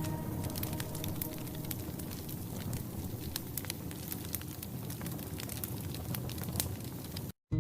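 Wood fire burning in a stone fireplace, crackling with many small sharp pops over a steady hiss. The sound cuts out to silence for a moment near the end.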